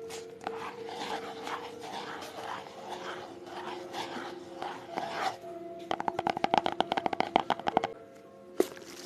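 ASMR trigger sounds: soft scratching strokes, several a second, for about five seconds, then a fast run of tapping, about ten taps a second, for two seconds, and a single tap near the end.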